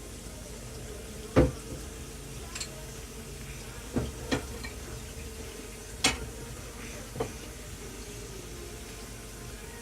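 Kitchen utensils knocking and clinking against cookware, about six sharp separate strikes spread over several seconds, the loudest near the start, over a steady low hum.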